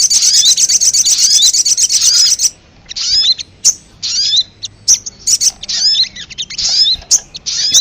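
Sogok ontong (sogon, the little spiderhunter) calling on a lure recording: a dense, rapid chatter of high chirps for about the first two and a half seconds, then separate short, sharp chirps in quick clusters.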